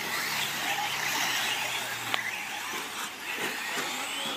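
Radio-controlled 4wd short course trucks racing on the track, a steady hiss of tyres and motors with several faint whines gliding up and down in pitch as they accelerate and brake.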